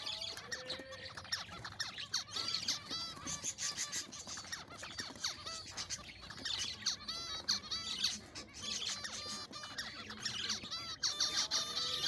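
A colony of captive zebra finches calling and chirping, many short arched chirps overlapping in a steady busy chatter.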